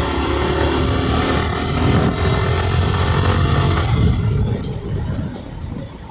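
Yamaha R15M's 155 cc single-cylinder engine running under way, heard from the rider's seat with wind rumbling on the microphone; it gets quieter about four seconds in as the throttle is eased.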